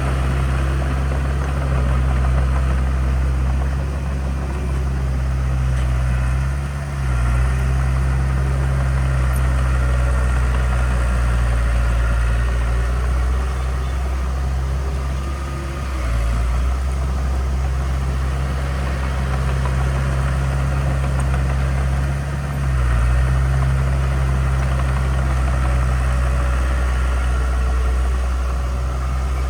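Heavy diesel engine of construction equipment running steadily under a low drone, its note dipping and shifting briefly three times.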